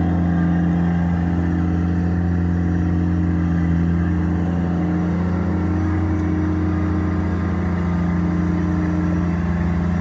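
Kubota BX25 compact tractor's three-cylinder diesel engine running steadily at a constant speed.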